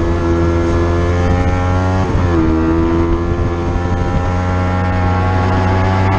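Racing motorcycle engine under hard acceleration, its pitch climbing steadily, with one quick upshift about two seconds in where the pitch drops and then climbs again.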